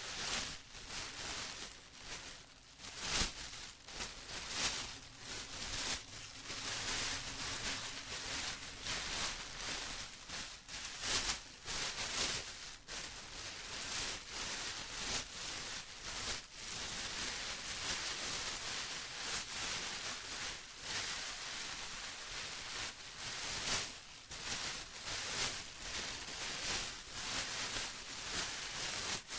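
Plastic rustling and crinkling continuously, with many sharper crackles scattered throughout.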